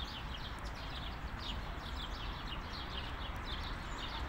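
Small birds chirping: a continuous run of short chirps, each falling quickly in pitch, a few per second. Beneath them is a steady low rumble and hiss.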